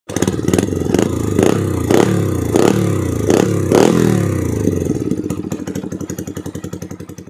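Honda MSX 125 single-cylinder four-stroke, bored out with a 60 mm piston on the stock stroke, revved through its exhaust in quick throttle blips about every half second, each dropping back. After about four seconds it settles into a steadier pulsing idle that fades near the end.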